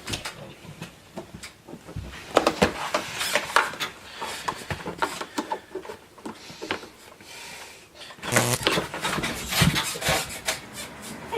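Irregular clicks, knocks and scraping of hands and tools working on a box fan, busiest near the end.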